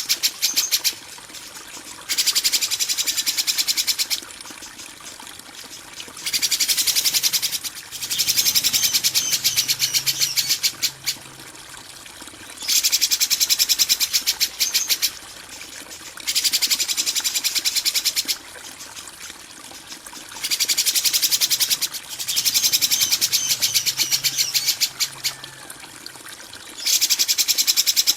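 Songbird masteran recording of harsh 'kasaran' song: a high-pitched, rapid rattling chatter that comes in bursts of one to three seconds with short pauses between, about eight times over.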